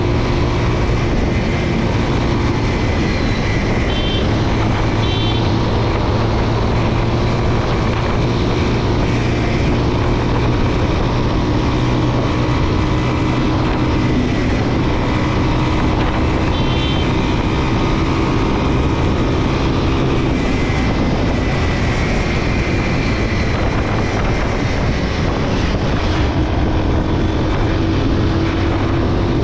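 Motorcycle engine running steadily while riding, under a loud, even rush of wind and road noise.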